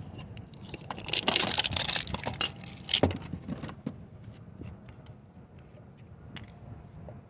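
Crinkling, tearing and clicking handling noise as the new oil filter and its packaging are handled. It is busiest from about one to three seconds in, then trails off into a few small clicks.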